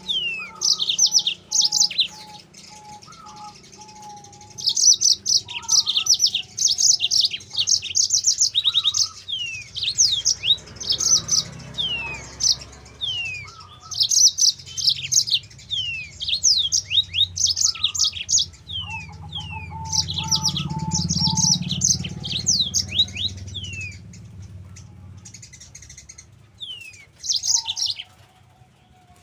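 Yellow-fronted canary (Mozambique canary) singing: bursts of fast, high trills mixed with quick falling whistled sweeps, phrase after phrase with short pauses between. Fainter, lower whistled notes and a low rumble sit underneath in places.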